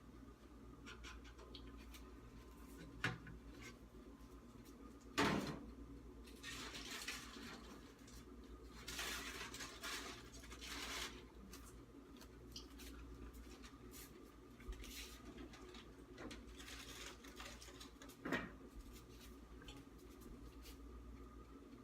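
Kitchen handling sounds: a few sharp knocks and clatters, and two stretches of hissing noise a few seconds long, over a steady low hum.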